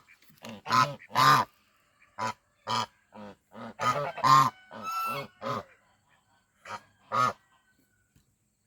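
Farmyard geese honking in a string of short, separate calls, about ten of them, which stop a little over a second before the end.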